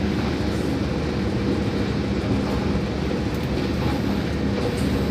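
Passenger train running at speed, heard from inside the carriage: a steady low rumble of wheels on rail with a faint steady hum.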